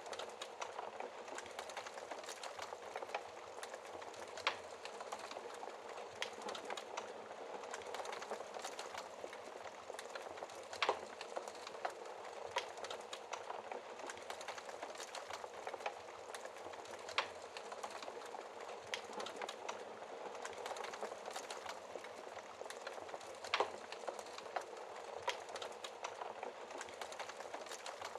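Fire crackling in a fireplace: a dense, steady run of small snaps and hiss, with a few louder pops scattered through.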